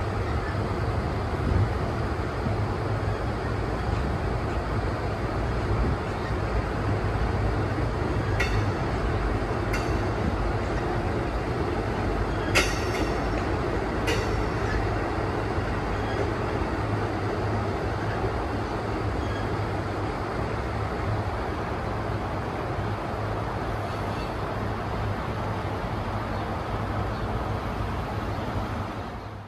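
Amtrak passenger train's cars rolling past on the rails, a steady rumble of steel wheels on track with a few sharp clicks about halfway through.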